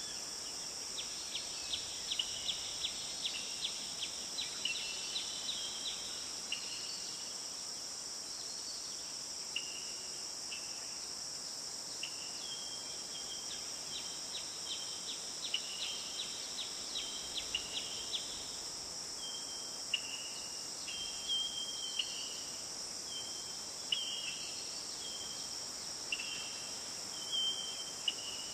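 Forest ambience: a steady high insect chorus, with a bird calling over it in short repeated notes and quick runs of chips throughout.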